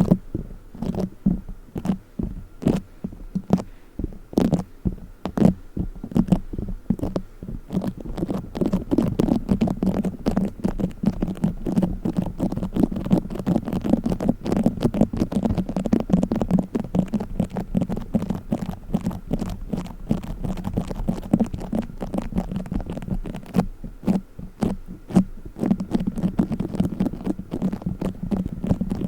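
Play foam being squeezed and kneaded close to the microphone: a dense, irregular run of small crackling clicks and sticky squishes.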